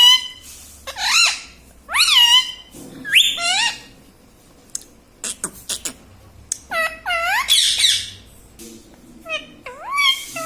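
Pet parrot making a series of short, high calls that swoop up and down in pitch, with a pause of a few seconds midway.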